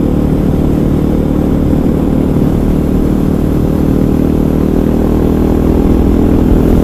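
KTM 500 EXC's single-cylinder four-stroke engine running at a steady cruise while riding, with wind noise on the microphone; the engine note rises slightly near the end.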